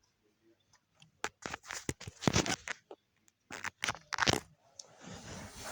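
Plastic Lego parts being handled: a string of sharp clicks and clacks, then a soft rustle near the end.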